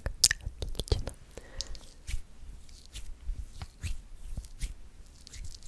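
Close-miked ASMR mouth sounds: irregular wet clicks and smacks, several a second, with soft low thumps.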